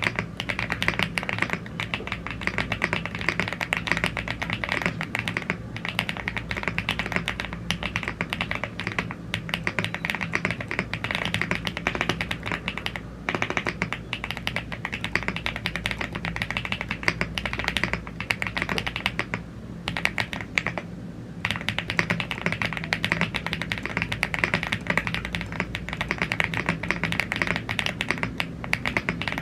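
Steady fast typing on a YUNZII AL75 gasket-mounted aluminium mechanical keyboard with Blue Grey tactile switches and double-shot PBT keycaps: a dense run of keystroke clacks, with a short break about two-thirds of the way through.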